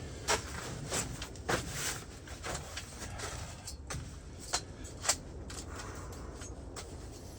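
Irregular short knocks and clicks of camp gear being handled and set up, over a low steady rumble.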